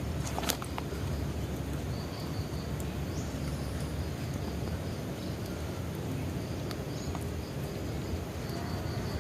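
Bonfire burning with a steady low rush and a few sharp crackles and pops, the loudest about half a second in.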